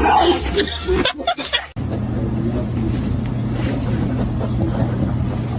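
A steady vehicle hum with road noise, starting abruptly at a cut about two seconds in. Before the cut, a short stretch of brief, broken sounds.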